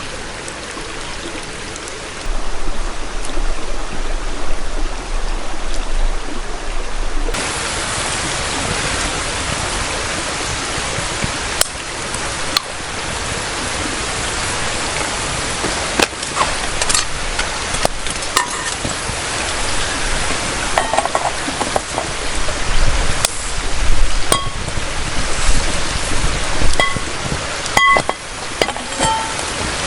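Clinks of metal cookware over a steady hiss. The clicks are scattered, and several short ringing clinks come in the last third.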